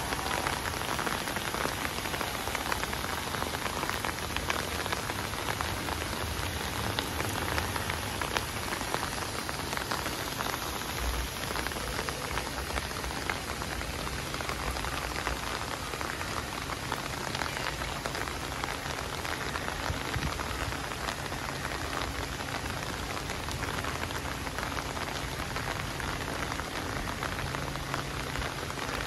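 Steady rain falling on wet pavement, an even patter of many drops that holds steady throughout.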